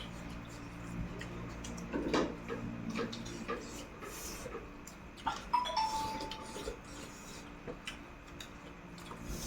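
Eating sounds close to the microphone: scattered short clicks and crunches of chewing and utensils on dishes. About five and a half seconds in, one clink rings on for about a second, like a utensil striking a metal bowl.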